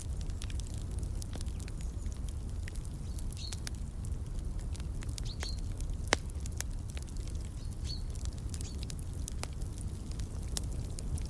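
Fireplace fire crackling, with frequent irregular sharp pops over a low steady rumble and one louder pop about six seconds in. A bird chirps briefly three times in the background.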